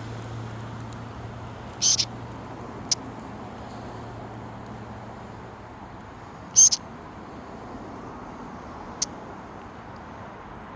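A bird giving short, high-pitched calls, four in all, the loudest about two seconds in and again past the middle, over a steady background rush. A low hum under it fades out about halfway through.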